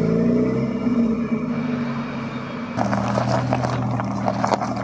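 A car's engine running at low revs as it drives off, its pitch dipping in the first second. About three seconds in, a steady lower engine note takes over, with a gritty crackling mixed in.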